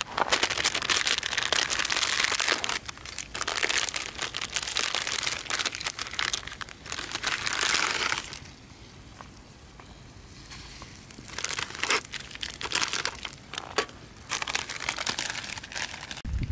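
Crinkling and crumpling of light packaging, in two spells of rustling bursts with a quieter pause between them, typical of handling an instant ramen wrapper or sachet.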